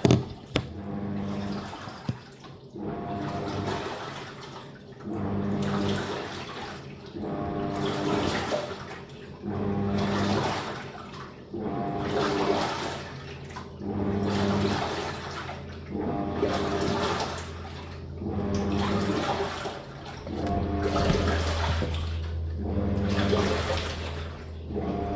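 Living & Co 5.5 kg top-load washing machine agitating: its motor hums and water sloshes as the wash plate turns one way, then the other, in strokes about two seconds apart.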